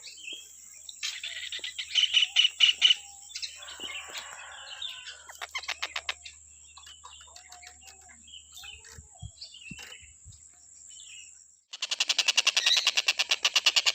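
Tengkek buto (collared kingfisher) calling in bursts of rapid, repeated harsh notes, with a steady high insect drone behind. Near the end a louder, even run of notes at about five a second starts abruptly and the drone stops.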